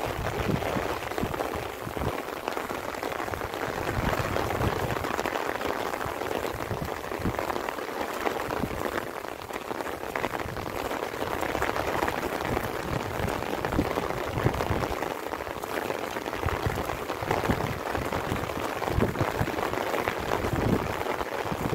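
Light rain falling steadily, a dense patter of many small drops, with irregular low bumps underneath.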